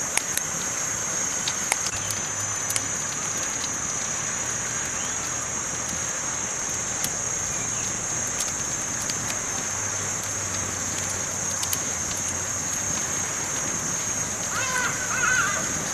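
Campfire burning: a steady hiss with scattered sharp crackles and pops. Near the end, a brief faint warbling sound rises over it.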